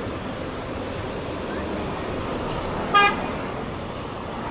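A single short vehicle horn toot about three seconds in, over steady traffic noise.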